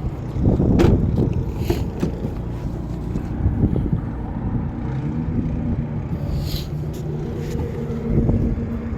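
A steady low engine-like rumble with a faint even hum, and a few scattered clicks and knocks over it.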